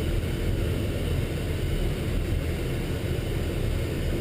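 Steady low engine and road noise from inside a moving military truck.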